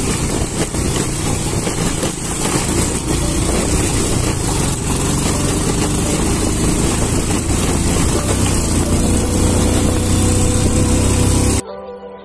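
Motorcycle engine running on the move, with a heavy rushing noise over it. It cuts off suddenly near the end as soft music comes in.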